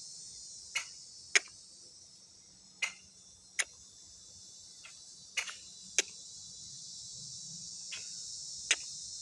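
Blackbirds giving sharp single clicking calls, about seven clicks at irregular intervals, over a steady high-pitched insect chorus.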